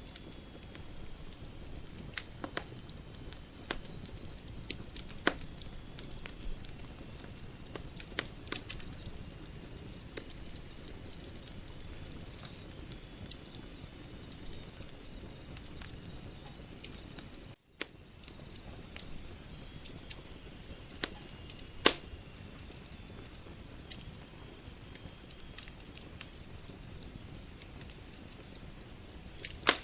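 Wood logs burning and crackling, with sharp pops every second or two over a steady rush of flame. The sound drops out for an instant a little past halfway.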